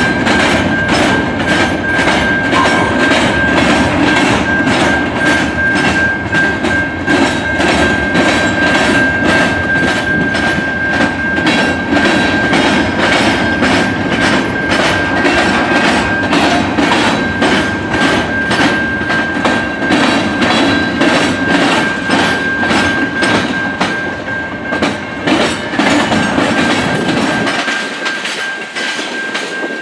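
Train rolling past, its wheels clicking over the rail joints about one and a half times a second over a steady rumble, with a thin high wheel squeal held throughout. The low rumble falls away near the end.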